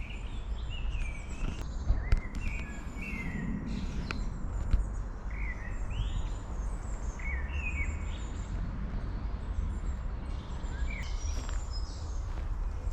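Small woodland birds singing and calling, with short chirps and warbled phrases throughout, over a steady low rumble and a few sharp clicks.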